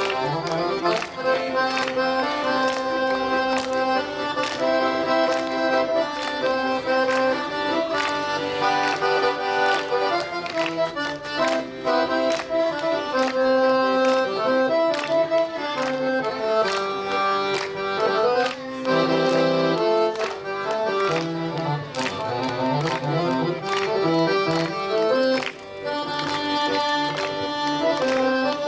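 Accordion playing a Korean trot melody in sustained, stepping notes over a regular beat.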